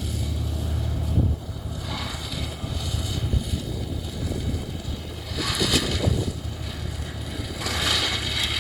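Heavy diesel forestry machine running, its engine giving a steady low hum that drops somewhat about a second in, with bursts of rushing noise twice in the second half.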